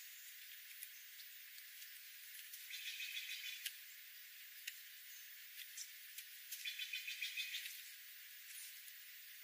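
Two bursts of rapid, pulsed animal calls, each about a second long, over a steady hiss with scattered faint clicks.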